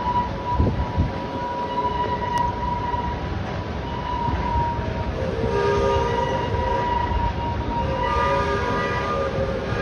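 Open passenger cars of a narrow-gauge heritage train rolling past with a low rumble. A steady whining tone runs throughout, and a chord of several tones sounds about five seconds in and again about eight seconds in.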